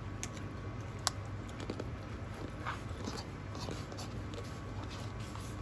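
A person chewing food, with scattered small clicks of forks against bowls; the sharpest click comes about a second in.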